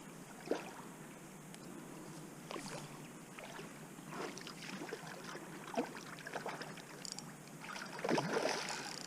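Irregular water splashing and sloshing in short bursts, loudest about eight seconds in, from a freshly landed common carp moving in the landing net at the water's edge.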